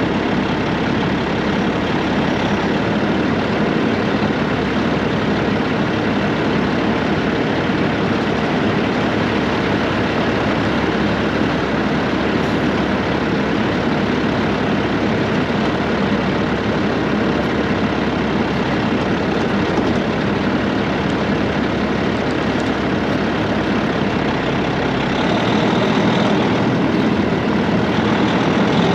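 Straight-piped diesel engine of a Peterbilt 379 semi truck running steadily, getting a little louder near the end.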